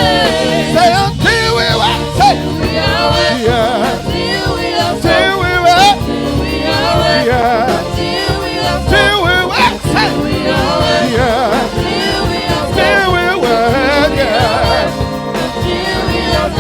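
Live gospel music: a praise team singing the church anthem, with wavering, ornamented vocal lines over steady instrumental backing.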